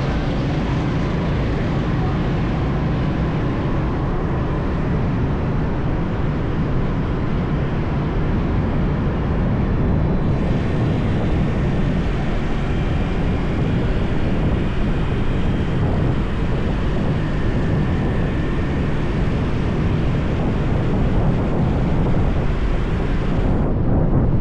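Steady wind rush over the microphone of a moving motorbike, mixed with its engine and tyre noise and the traffic around it on the highway. A few faint high tones come and go in the middle.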